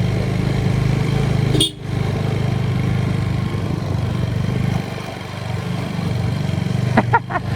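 Motorcycle engine running steadily under way, with a brief sharp drop in sound about a second and a half in and a slightly quieter stretch around the middle.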